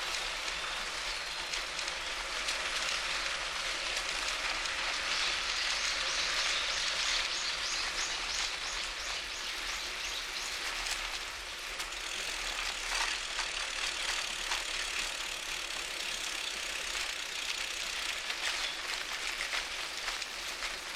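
Bicycle being ridden: a steady hiss of tyres rolling on the road with light rattling and ticking from the bike, and a run of quick even ticks in the middle.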